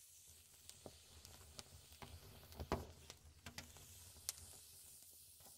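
Wood fire in a fireplace crackling right at the microphone: sparse sharp pops and snaps over a faint hiss, the loudest pop a little under three seconds in.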